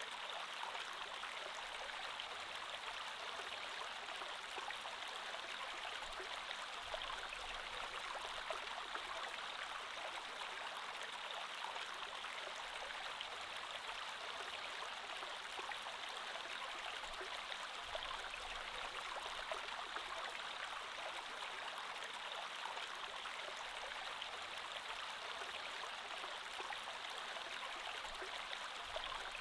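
Creek water flowing steadily over stones, an even rushing with fine gurgling and no pauses.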